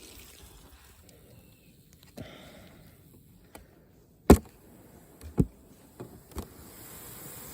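Beehive equipment being handled: a few sharp knocks, the loudest about four seconds in and another about a second later, with fainter taps around them.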